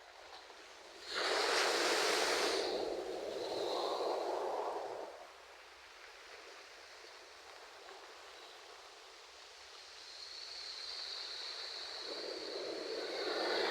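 Ocean waves washing onto a shore: one wave breaks about a second in and runs out by about five seconds, and a second one builds from about ten seconds and breaks near the end.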